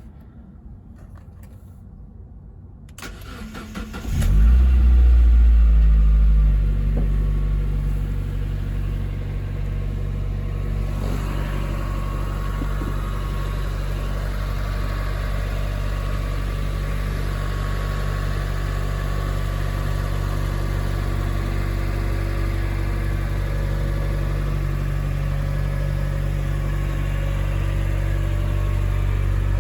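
2000 Mazda MX-5 Miata's four-cylinder engine cold-started: it cranks and catches about four seconds in, runs loudest for a couple of seconds at a raised fast idle, then settles into a steady cold idle.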